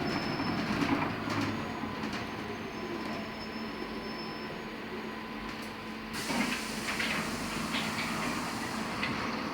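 Cabin noise inside a LiAZ-6274 electric bus at a stop: a steady hum with faint electrical whines and a few light clicks. About six seconds in, a brighter, hissier noise comes in suddenly.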